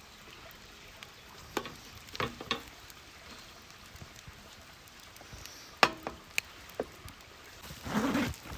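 Sirloin steak sizzling faintly over a campfire grill, with a handful of sharp clicks and ticks and a louder rustling scrape near the end.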